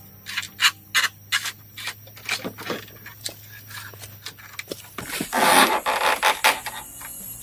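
Bamboo being worked by hand: a run of sharp knocks and clacks, then a loud scrape lasting over a second about five seconds in.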